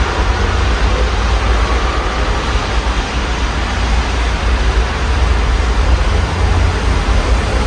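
Steady rain heard through an open window, an even hiss over a continuous low rumble.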